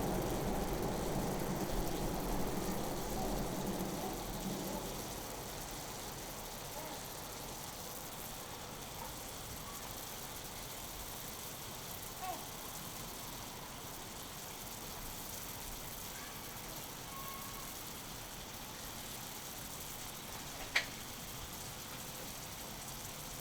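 Steak sizzling on an iron griddle plate over a small BBQ grill: a steady hiss, fuller for the first few seconds, with one sharp click near the end.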